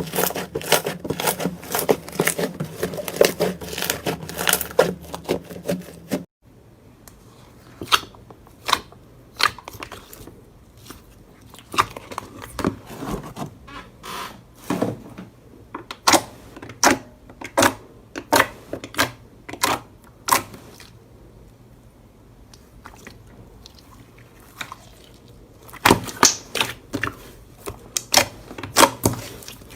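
Slime being squeezed and poked by hand, making a run of sticky clicks and pops. The clicks are dense at first, turn sparser and separate after an abrupt change about six seconds in, and come thick again near the end.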